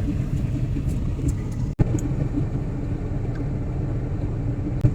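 Steady low rumble of a car running, which cuts out for an instant about two seconds in, with a short click near the end.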